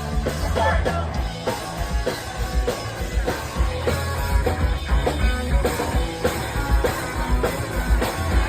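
Live punk-pop rock band playing an instrumental passage: electric guitars, bass and drums with a steady beat of about four drum hits a second, loud and dense.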